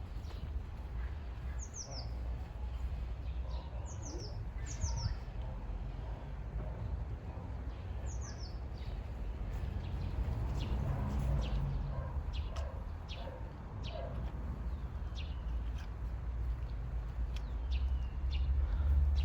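Small songbirds chirping: a few quick falling chirps in the first half, then a run of short, sharp chirps through the second half. A steady low rumble runs beneath them.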